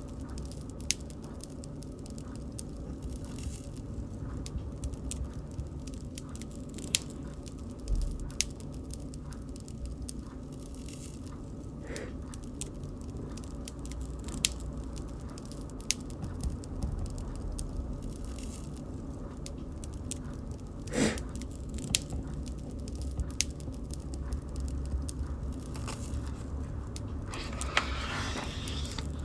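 Wood bonfire crackling: irregular sharp pops and snaps over the steady low rumble of the flames, with one louder pop about two-thirds of the way through and a short hiss near the end.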